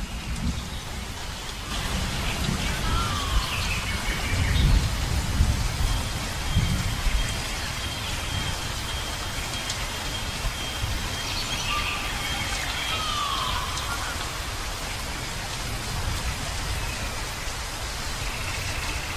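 Steady rushing noise with uneven low rumbles in the first half, and a few short whistling calls that slide in pitch over it. A thin, steady high tone is held for several seconds in the middle.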